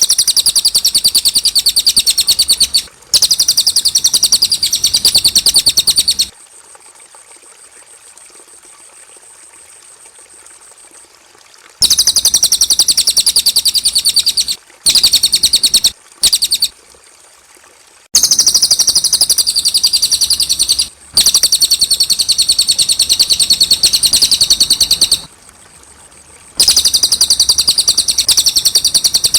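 Cililin songbird singing in long bursts of rapid, high-pitched chirping trills, each a few seconds long, with short breaks between them.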